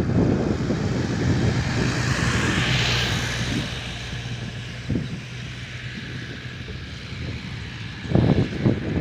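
Wind buffeting the microphone, with a rushing hiss that swells and fades a few seconds in; the buffeting grows strong again near the end.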